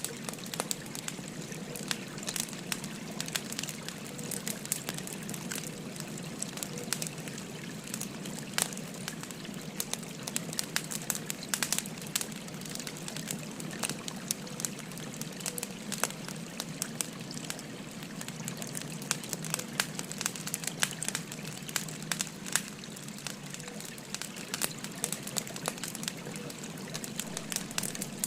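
Burning firewood crackling and popping in sharp, irregular snaps over the steady rush of a babbling stream.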